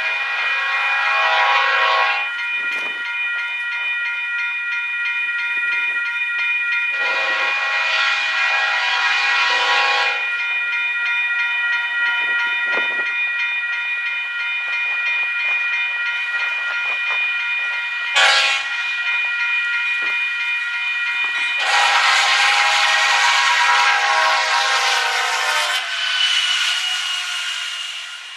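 Union Pacific freight locomotive horn sounding the grade-crossing signal: two long blasts, a short one, then a final long blast. Under it, a freight train rolls past with a steady high-pitched whine.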